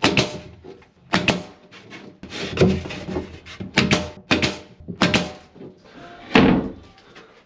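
A series of irregular knocks and bangs, roughly one a second, each with a short ringing tail; the loudest comes near the end.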